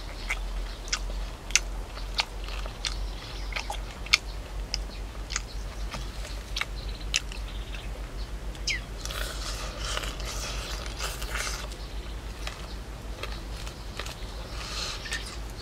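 A person biting and chewing grilled pork close to the microphone: many sharp, crunchy clicks through the first half, then noisier chewing from about nine to eleven seconds in and again near the end. A low steady hum runs underneath.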